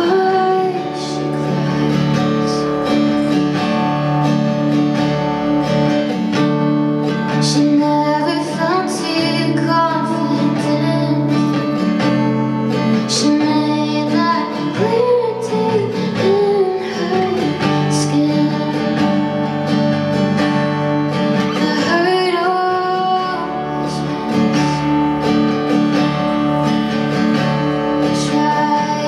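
Live pop song performed by a female singer with acoustic guitar accompaniment, sung over steady strumming.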